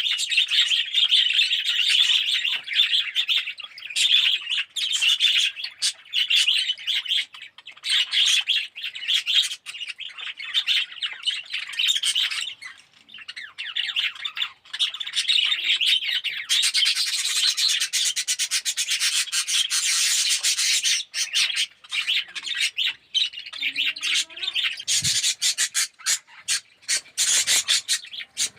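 A flock of budgerigars chattering and chirping together, a dense, continuous warble of many overlapping calls.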